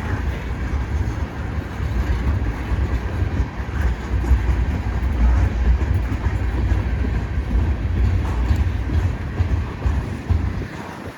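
Freight cars of a passing train rolling by, with a steady low rumble of wheels on rail.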